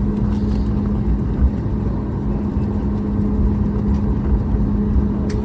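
Steady cabin noise inside a Boeing 737 airliner on the ground after landing: a low engine and airflow rumble with a constant hum. A single short click near the end.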